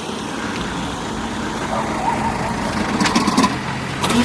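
An engine running steadily, with faint voices in the background.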